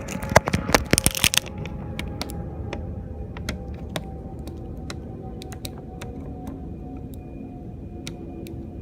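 Jet airliner engines running at a distance, a steady low rumble with a faint whine that slowly falls in pitch. Many sharp, irregular clicks and taps sit over it, thickest in the first second and a half and then scattered.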